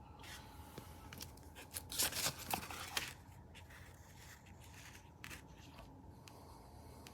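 Handling noise: crinkling and tearing sounds with scattered sharp clicks, loudest about two to three seconds in, over a faint steady hum.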